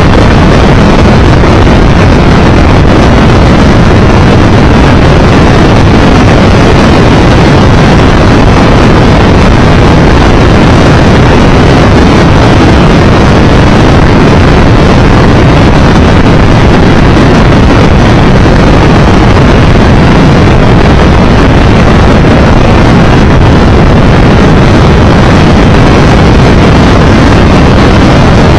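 Loud, steady wind rush over the microphone, mixed with engine and road noise from a Triumph Tiger Explorer 1200 motorcycle riding at speed.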